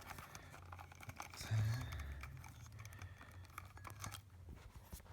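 Faint crinkling and small clicks of plastic and wires being handled while the zip tie around a ceiling fan's wattage regulator is cut, with a brief low thump about a second and a half in.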